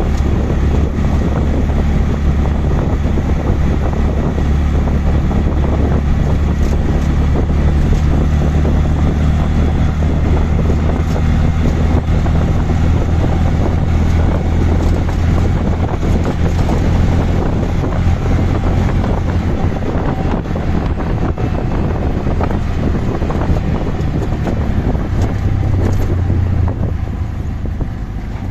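Auto-rickshaw engine running steadily on the move, with road and wind noise on the microphone; it eases off a little near the end.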